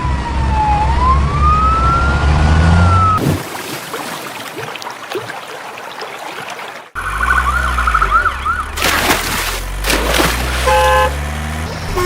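A siren rising and falling over a running vehicle engine, then a fast warbling siren yelp after an abrupt cut about seven seconds in, with a few loud bursts of noise after it.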